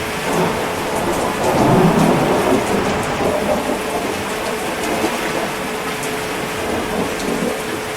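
Steady heavy rain with a roll of thunder that builds about half a second in, peaks around two seconds and rumbles away over the next few seconds.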